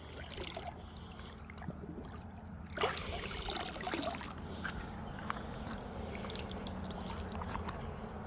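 Shallow creek water trickling and splashing, with a louder splash about three seconds in and scattered small knocks afterwards.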